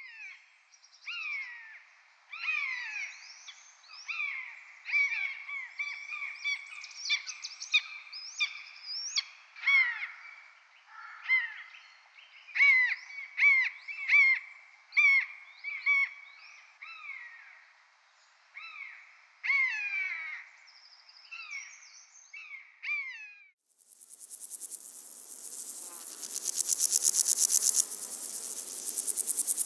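Songbird singing a run of short whistled notes, most sliding downward, repeated in quick phrases. About 23 seconds in the song stops and a louder, continuous, fast-pulsed rasping buzz begins abruptly and carries on.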